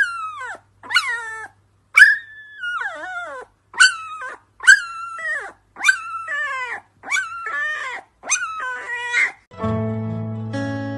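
An animal calling over and over, about ten high cries roughly a second apart, each starting sharply and sliding down in pitch. Acoustic guitar music comes in near the end.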